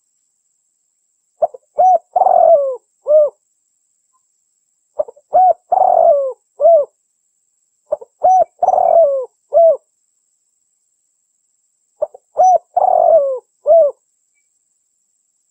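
Female spotted dove (derkuku) cooing, used as a lure call for males. It gives four phrases of several short coo notes each, each phrase with a longer, falling middle note, repeated every three to four seconds with pauses between.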